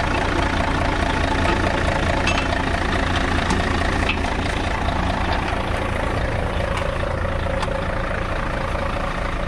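Vehicle engine running steadily at idle close by, a constant low rumble with no revving.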